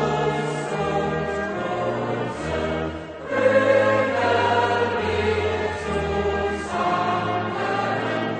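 Background music: a choir singing held chords with orchestral accompaniment, briefly dipping about three seconds in before coming back fuller.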